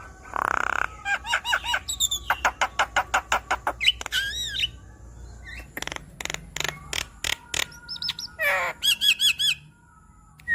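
Javan myna (jalak kebo) singing a varied chattering song: harsh squawks, rapid runs of clicking notes and arching whistled notes.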